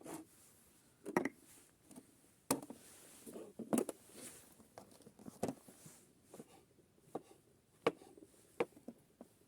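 Irregular light knocks and clatters, about a dozen over several seconds, uneven in loudness and spacing, as of things being handled and set down.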